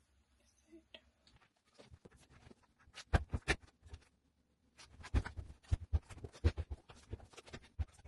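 A quick, irregular run of knocks, taps and clicks from close-range handling, starting about three seconds in.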